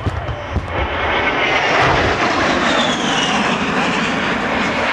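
A-10 Thunderbolt II jet flying past with its twin turbofans running loud and steady. A high whine falls in pitch about three seconds in as it goes by.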